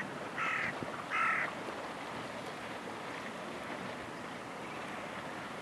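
A bird giving two short calls in the first second and a half, about two-thirds of a second apart, then a steady hiss of wind.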